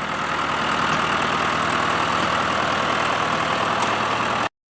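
John Deere 2750 farm tractor's diesel engine running steadily, growing louder over the first second, then cut off abruptly near the end.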